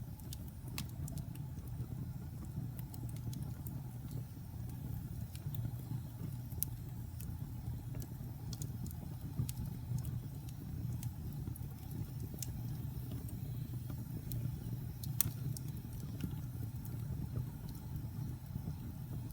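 Wood fire burning in a fireplace: a steady low rumble of flames with scattered sharp crackles and pops, the loudest pop about fifteen seconds in.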